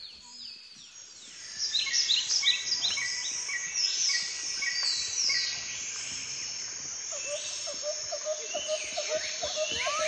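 Wild birds singing: rapid high chirps start about a second and a half in. Near the end a lower note joins them, repeated about four times a second.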